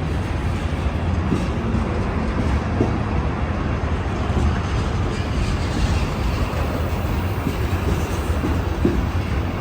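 A train rolling past: a steady low rumble of wheels on rail, with scattered light clicks.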